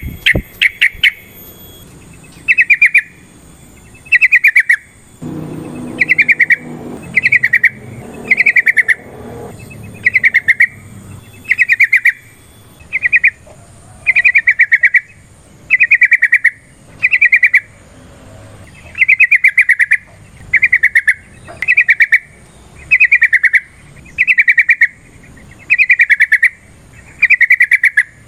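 Yellow-vented bulbul singing: short, loud, rapidly pulsed chattering phrases, each about half a second long, repeated about once a second.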